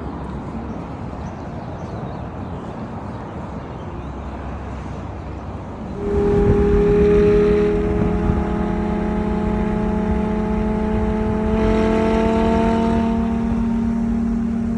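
Audi R8's V10 engine through a straight-piped exhaust: a low rumble at first, then about six seconds in a much louder engine note comes in and climbs slowly in pitch as it pulls.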